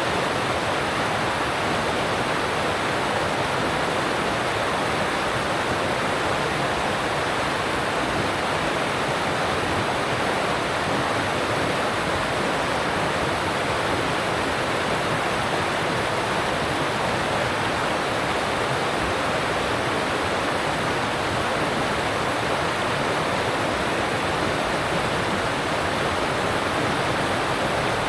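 Alpine mountain stream rushing steadily over rocks, an even, unbroken water rush.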